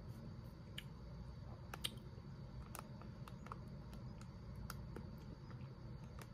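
Faint, irregular small clicks and ticks scattered over a low steady room hum.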